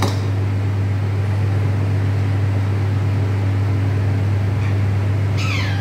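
Steady low mechanical hum, like a fan or air-conditioner motor, running throughout. A short falling chirp, likely from the parrot, comes near the end.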